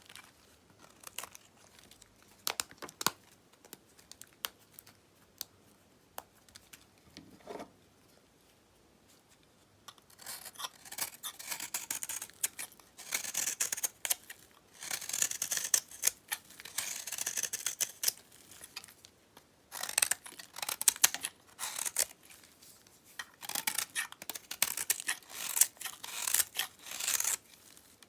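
A knife cutting through dyed bar soap. For about the first ten seconds there are only scattered light clicks and taps, then repeated crisp, crackly cuts in runs of a second or two with short pauses between.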